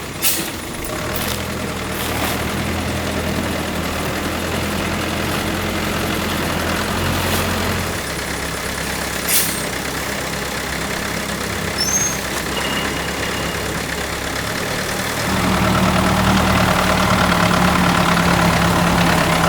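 Small engine running steadily, with a few sharp knocks over it. Its note changes about eight seconds in, and it gets louder with a higher, stronger tone about fifteen seconds in.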